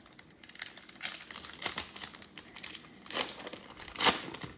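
A trading card pack's plastic wrapper crinkling and tearing as it is opened, in irregular crackly bursts, the loudest about three seconds and four seconds in.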